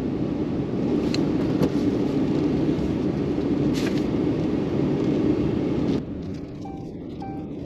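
Truck driving on snowy ground: steady engine and tyre rumble that cuts off abruptly about six seconds in, leaving a quieter steady hum with two faint short beeps.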